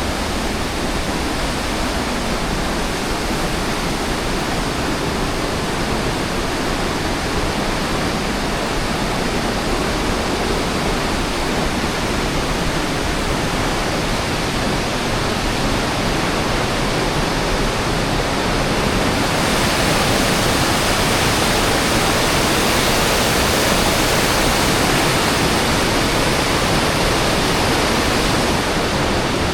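Steady rushing noise of falling water, like a waterfall, getting louder and brighter about two-thirds of the way through.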